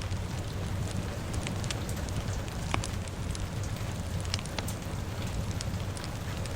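Fire crackling over steady rain: a constant low rushing bed with sharp, irregular pops, a few each second.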